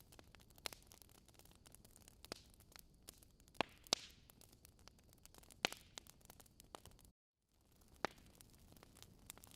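Wood logs burning in a fireplace, crackling: irregular sharp pops and snaps over a faint hiss, with a few louder pops in the middle.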